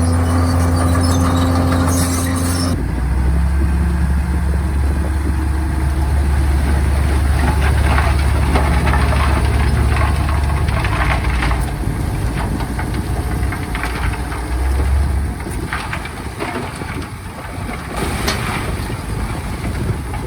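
Crawler bulldozer's diesel engine running steadily, its note shifting about three seconds in and dropping away toward the end. Scattered metallic clanks come in the second half.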